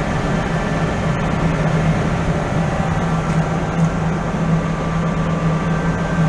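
Steady machinery drone: a strong low hum with a noisy hiss over it and a few faint higher tones, unchanging in level.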